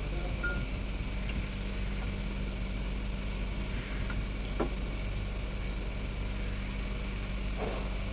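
Steady low hum of an idling engine, with a few light clicks, the clearest about four and a half seconds in.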